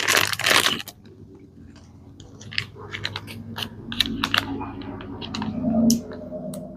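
Small parts being handled: a brief rustle at the start, then a scatter of light clicks and clatter over a low steady hum.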